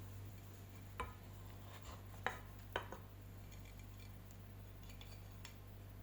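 Light clinks and taps of tableware against dishes: three sharper knocks about one, two and a quarter and two and three-quarter seconds in, then a few soft small ticks, over a steady low hum.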